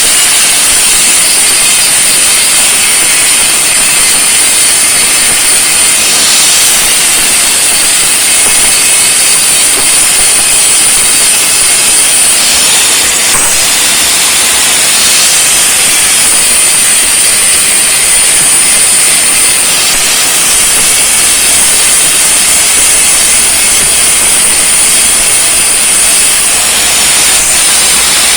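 Angle grinder with a cut-off disc cutting through steel: a loud, steady, high hissing screech that holds for the whole cut.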